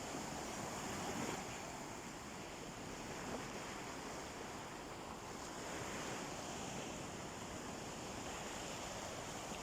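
Gentle sea waves washing onto a beach, a steady rush of surf that swells and eases, with some wind on the microphone.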